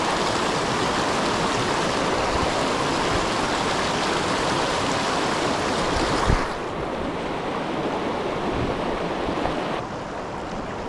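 Small mountain creek rushing over rocks close to the microphone. A single dull thump comes about six seconds in, and then the water sounds quieter.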